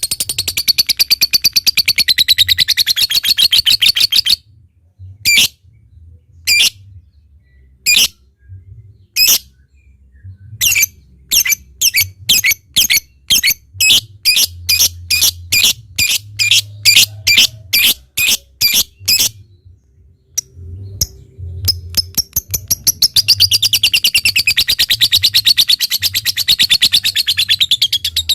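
Lovebird song. It opens with a fast, continuous high-pitched chattering trill (ngekek). Then come single sharp chirps, building into a steady run of clipped ticking chirps at about two a second (ngetik). After a short pause the long rapid chatter returns for the last several seconds.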